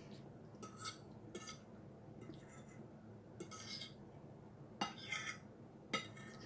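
Cutlery clinking and scraping against a plate during a meal, about five brief sounds spaced through a quiet stretch.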